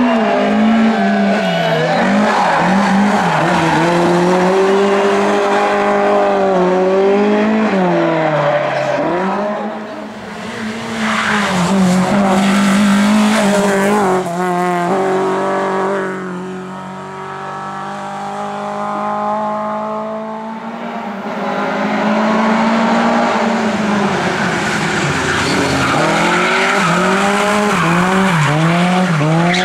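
Lada race car engine running hard, its pitch repeatedly climbing and then dropping as it shifts gears and comes off the throttle, easing to a quieter, lower note twice in the middle before pulling hard again.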